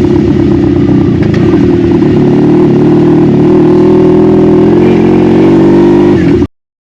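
Honda Magna V45's V4 engine running steadily, its pitch shifting slightly, then the sound cuts off abruptly near the end.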